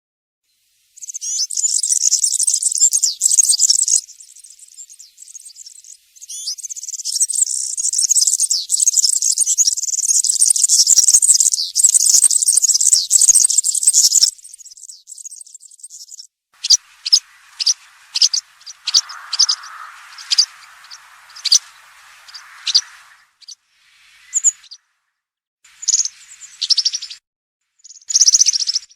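European serin singing: long, high-pitched, fast jingling song phrases, the longest lasting about eight seconds. From about halfway, separate short high notes and brief song bursts.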